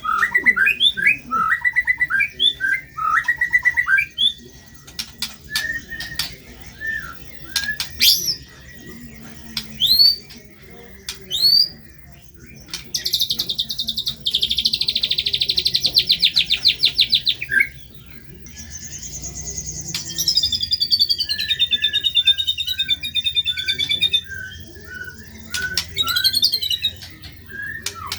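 White-rumped shama (murai batu) singing a varied song: runs of quick chirps, sharp rising whistles, a fast trill from about 13 to 17 seconds in, and a high falling trill from about 19 to 24 seconds in.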